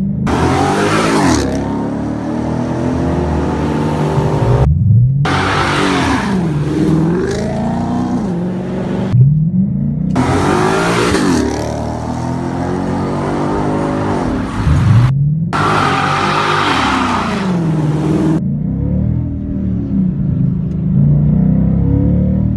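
The 5.0-litre V8 of a 2016 Ford Mustang, with an aftermarket exhaust, revving up and falling back again and again under acceleration. The sound breaks off abruptly three times, as separate passages are cut together.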